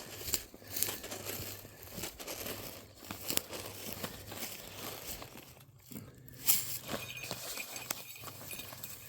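Irregular rustling and crackling in dry grass and brush, short crinkly snaps coming unevenly and without a steady rhythm, around a Harris's hawk that has just caught a large field rat.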